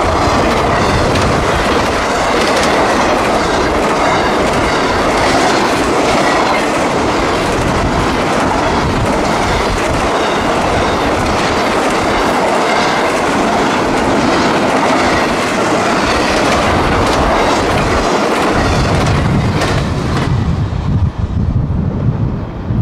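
CSX intermodal freight train passing close by: a steady rush of steel wheels on rail with a regular clickety-clack over the joints and a faint wheel squeal. About twenty seconds in, the train noise drops away and wind buffeting the microphone is left.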